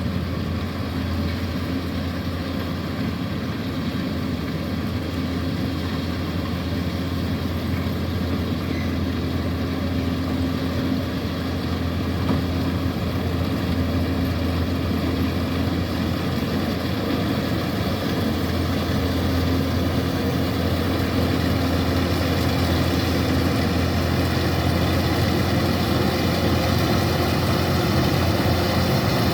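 Kubota DC-105X combine harvester's diesel engine running steadily with a strong low hum, growing a little louder toward the end.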